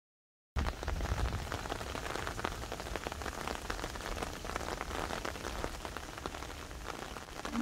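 Steady rain falling, dense with small drop taps over a low rumble, starting abruptly after about half a second of silence.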